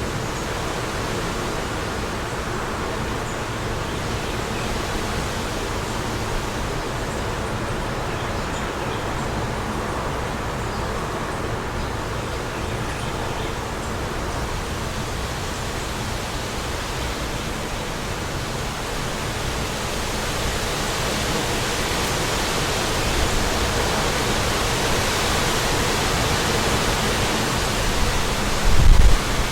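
Wind blowing steadily through a suburban neighbourhood, a gust building to louder, brighter rushing in the second part, with a brief low buffet of wind on the microphone near the end. A few faint high bird chirps sound in the first half.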